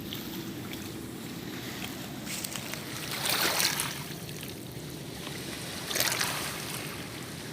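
Small waves washing at the water's edge, a steady hiss with two louder washes, one about three seconds in and one about six seconds in.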